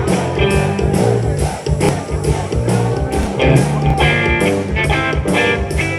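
Live rock band playing: electric guitar over bass and drums with a steady beat.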